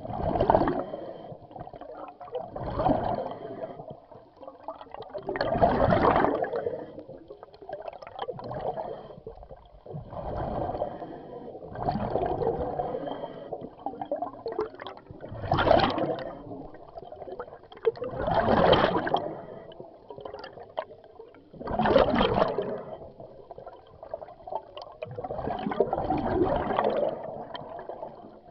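Underwater scuba breathing: the diver's regulator releasing bursts of exhaled bubbles every two to three seconds, gurgling as they rise, with quieter inhales between.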